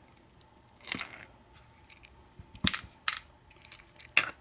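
Small metal lock parts clicking and tapping: brass key pins being pulled from a disassembled pin-tumbler lock plug and set down, as a few sharp separate clicks with two close together near the end.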